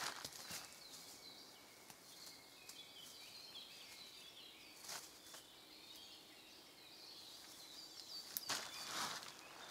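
Faint birdsong, with a few short clicks and rustles; the rustling grows busier near the end.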